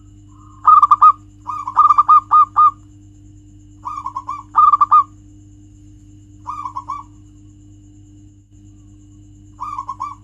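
Zebra dove (perkutut) cooing: five bursts of quick, stuttering coos with pauses between them, over a steady low hum.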